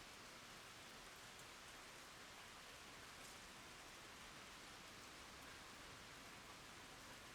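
Faint, steady rain falling on wooden boards and a water surface, an even hiss with a few small drop ticks.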